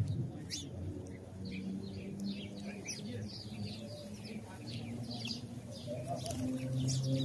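House sparrows chirping in a busy run of short, quick chirps, with a dove cooing in low, drawn-out notes underneath, twice.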